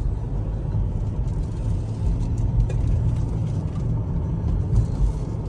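Diesel truck being driven: a steady low engine and road rumble inside the cab, with a few faint light clicks and rattles.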